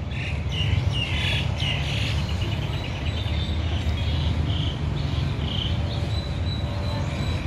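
Birds chirping and calling in trees, with short repeated calls and a quick trill about two seconds in, over a steady low rumble.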